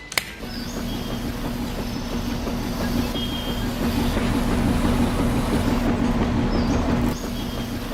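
A click, then a small electric gear motor running steadily with a hum and a rattle, as in a miniature DIY tractor or concrete mixer.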